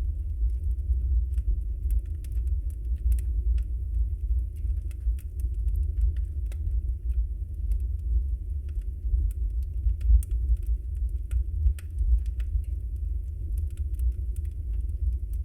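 Wood fire burning in a fireplace: a steady low rumble of the flames with many faint, scattered crackles and pops from the burning logs.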